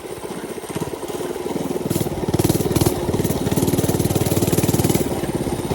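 Mini bike's small single-cylinder engine running under throttle, its rapid firing pulses growing louder about a second and a half in, then holding steady.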